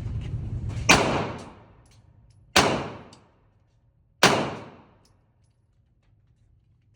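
Three gunshots about a second and a half apart, each ringing out with a short echo.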